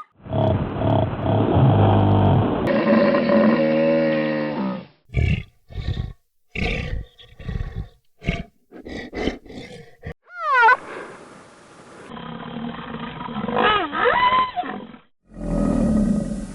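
Tiger roaring and growling, heard in a string of short spliced clips: drawn-out moaning roars, a run of short separate grunts, and pitched calls that glide up and down.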